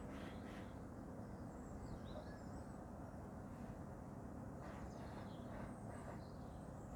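Faint, scattered bird chirps over a low, steady outdoor background rumble.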